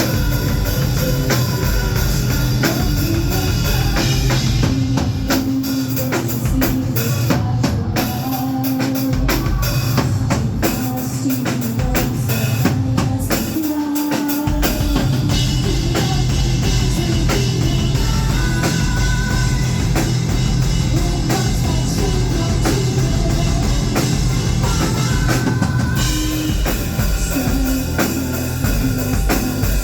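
Live metal band playing at full volume, with a heavy drum kit and bass drum to the fore. The low end drops out briefly about halfway through before the full band comes back in.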